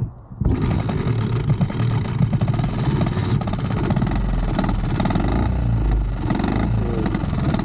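Small single-cylinder Dax mini-bike engine running poorly, starting suddenly about half a second in and then running steadily. It is losing power because its spark plug cable has melted against the exhaust.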